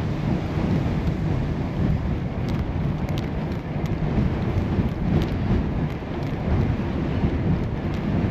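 Wind buffeting the microphone of a camera riding on a moving bicycle: a steady low rumble with a few faint clicks in the middle.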